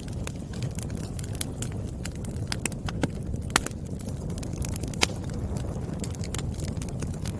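Wood fire crackling: irregular sharp pops and snaps from the burning logs over a steady low rumble of the flames, with a couple of louder pops in the middle.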